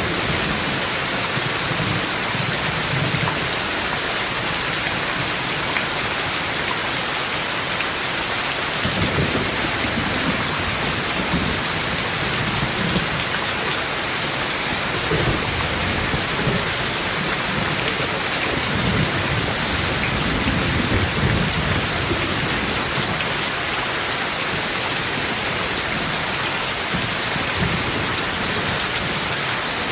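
Steady rain, with low rolls of thunder rumbling under it on and off, swelling strongest from about nine seconds in.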